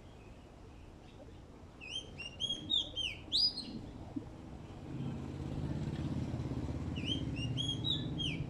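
A songbird sings two short phrases of quick, downward-hooked whistled notes, about four seconds apart. From about halfway, a low, steady engine hum comes in beneath it.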